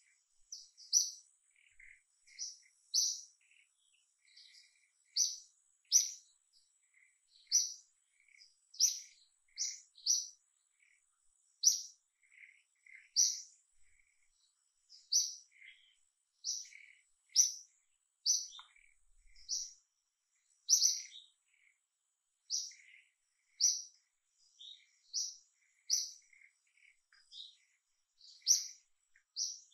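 A bird chirping over and over in short, high notes, about one a second, with a faint steady high-pitched tone underneath.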